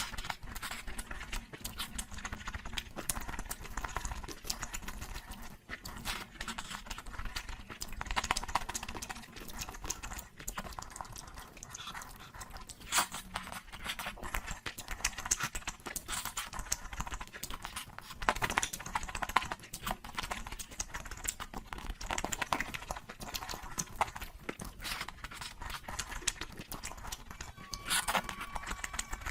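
Close-miked eating sounds: continuous wet chewing and lip smacking, with irregular short clicks and smacks throughout.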